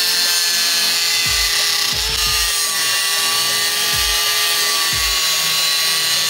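Angle grinder with an abrasive disc grinding steel: a steady motor whine over the hiss of the disc biting the metal, its pitch sagging slightly under load.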